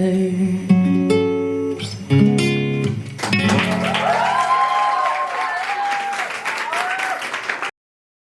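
Acoustic guitar strumming the closing chords of the song, three strokes in the first three seconds, then a soft gliding melody over the last ringing chord. The sound cuts off abruptly near the end.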